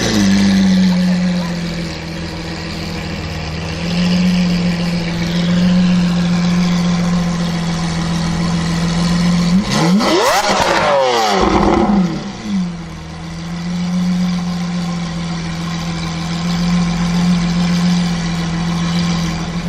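Lamborghini Aventador's V12 idling steadily, with one quick rev up and back down about halfway through.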